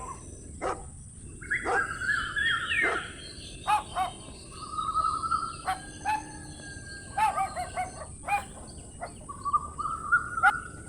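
Birds chirping in short repeated calls, some sliding down in pitch, with sharp clicks and taps scattered between them and a constant high-pitched whine.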